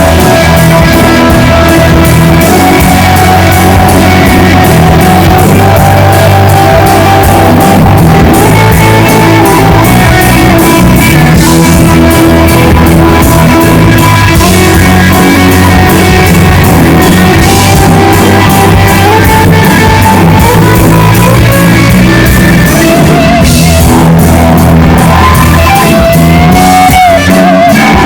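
Rock band playing loud with guitar and drum kit, mostly instrumental.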